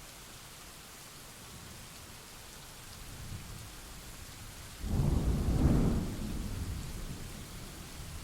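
Steady rain with a thunderclap: a faint low rumble about three seconds in, then a sudden loud crack of thunder about five seconds in that rolls away over the next couple of seconds.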